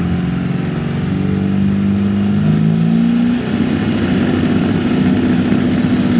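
1997 Ford F-350's 7.3 L Power Stroke turbo-diesel V8 running hard under full load while pulling the sled, its pitch stepping up twice partway through. A high turbocharger whistle rises in pitch in the middle and then holds.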